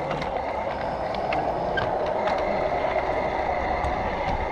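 G scale model train running along garden track: a steady rolling hum of wheels and motor, with a faint steady whine and many small scattered clicks from wheels on the rails.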